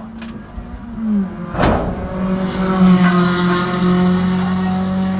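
Race car engine running at a steady pitch, dipping briefly about a second in, with a single sharp bang about a second and a half in.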